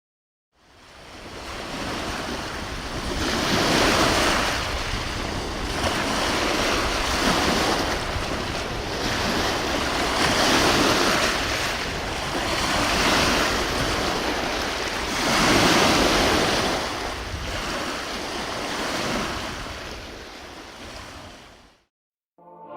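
Ocean surf washing in and out, a rushing noise that swells and eases every two to three seconds. It fades in at the start and stops shortly before the end.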